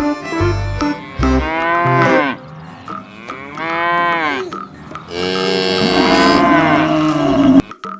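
A cow mooing three times, each call rising and then falling in pitch, the third the longest.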